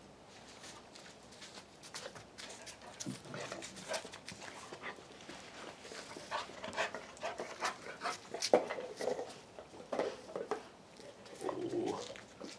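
A dog panting, with scattered light clicks and knocks.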